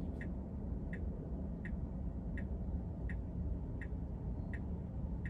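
Car turn-signal indicator ticking evenly, about one click every three-quarters of a second, over a steady low cabin rumble in a stationary Tesla.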